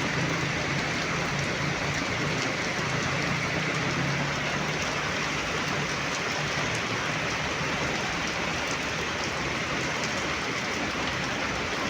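Heavy rain pouring steadily, with a low steady hum underneath that fades out about six seconds in.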